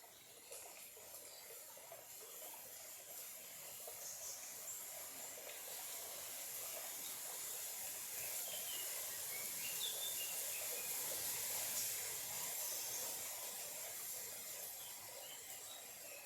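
Small stream trickling and flowing steadily, swelling louder toward the middle and easing off again, with a few faint bird chirps in the second half.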